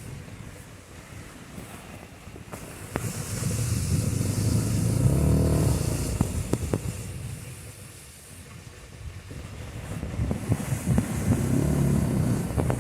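Blizzard wind gusting against an ice-fishing shelter, a low rumble that swells twice, with a few sharp knocks from the shelter.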